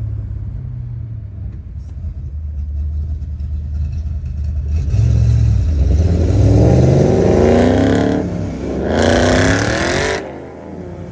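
V8 Mustang engine at a low rumble, then accelerating hard: the revs climb for several seconds, dip briefly, climb again, and cut off suddenly near the end.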